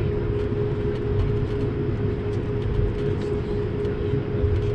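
Steady cabin noise inside an Airbus A220-300 airliner: a constant low rumble of its Pratt & Whitney geared turbofan engines and airflow, with a steady mid-pitched hum running through it.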